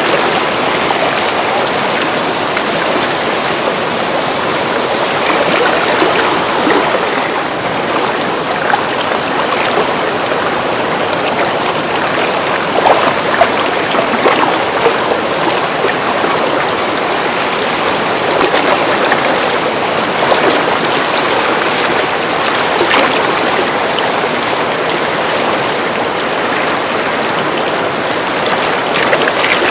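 Fast mountain river rushing over rocks, a steady loud roar of water with small splashes flickering through it.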